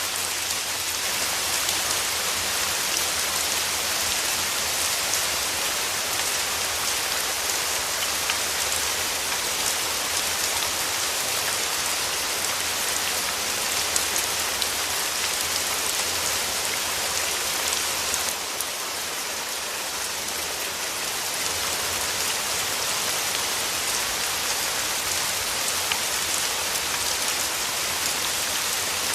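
Steady rain falling: a dense, even hiss with scattered individual drops ticking through it, easing slightly for a few seconds about two-thirds of the way through.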